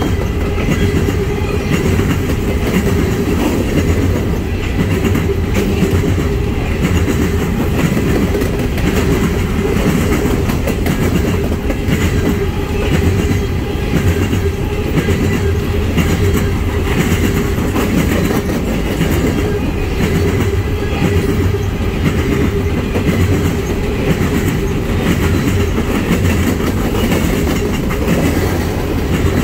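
Coal train's hopper cars rolling past at close range: a steady rumble with wheels clattering over the rail joints, and a steady tone running underneath.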